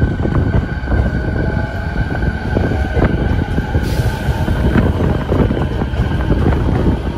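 Tokyo Waterfront Area Rapid Transit 70-000 series electric train moving slowly past along a station platform, as it pulls out: steady rumble of wheels and running gear with light clacks, and a steady motor whine that fades out after about five seconds. A short hiss about four seconds in.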